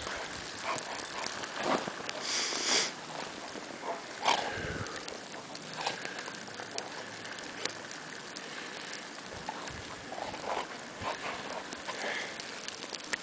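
Steady hiss of a windy snowstorm, with dogs snuffling and moving about in the snow, heard as scattered short clicks and rustles.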